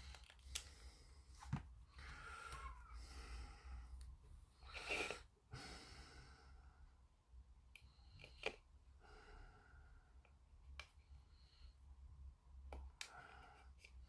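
Near silence over a low steady hum, broken by a few faint small clicks and soft rustles of hand work with small modelling tools.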